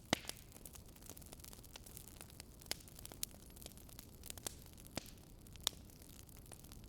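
Wood bonfire crackling: irregular sharp pops and snaps over a low steady hiss, the loudest pop just after the start.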